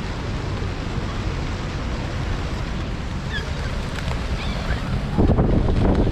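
Wind buffeting the microphone over a steady wash of surf, with a few faint, short bird calls about halfway through. It gets louder and rougher near the end.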